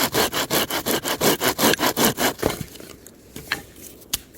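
A hand saw cutting through a small stick of firewood with quick back-and-forth strokes, about five a second, stopping about halfway through. After that come a couple of faint knocks.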